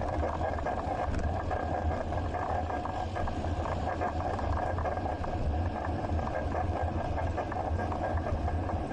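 Steady riding noise picked up by a bicycle-mounted action camera: a constant low rumble of wind and tyres on the road, with a steady hum.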